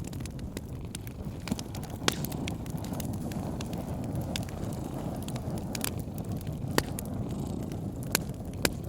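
Wood fire crackling, with irregular sharp pops (a few louder snaps about two, seven and eight seconds in) over a low, steady rumble.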